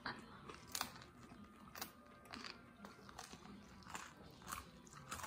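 A man chewing and biting into a fried hot chicken wing: faint, irregular crunches and mouth sounds, spaced roughly half a second to a second apart.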